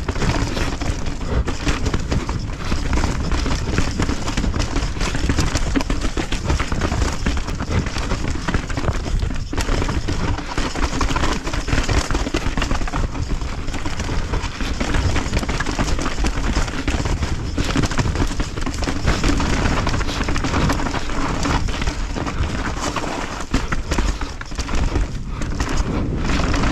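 Mountain bike riding fast down a rocky trail: a steady clatter of tyres, chain and suspension knocking over rocks, with a heavy rumble of wind buffeting the helmet camera's microphone.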